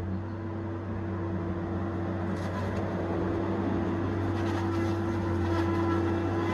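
Tigercat 870C feller buncher's diesel engine running steadily with a constant hum, getting slightly louder toward the end.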